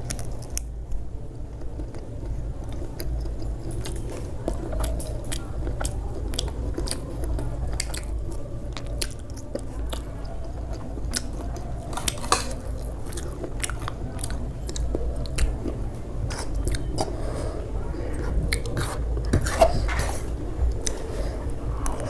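Close-miked mouth sounds of a person eating, chewing and biting food, with many short crisp clicks and crunches throughout.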